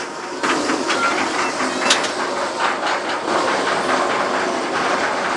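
Wildfire steel roller coaster train running along its track: a steady rushing noise with scattered short clicks.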